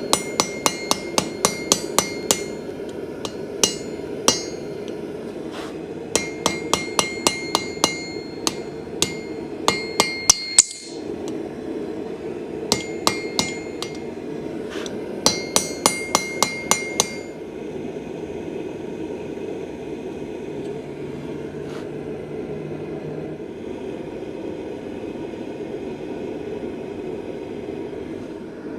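Hand hammer striking steel on an anvil in runs of quick, ringing blows, a few per second with short pauses, as the stock is forged; the blows stop for the last third. A steady rushing noise runs underneath.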